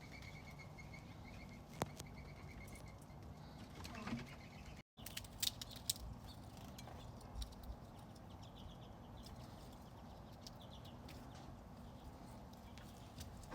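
Faint outdoor ambience with small birds calling: a quick run of repeated high notes, later more faint chirping, and a few sharp clicks. The sound cuts out completely for a moment near the middle.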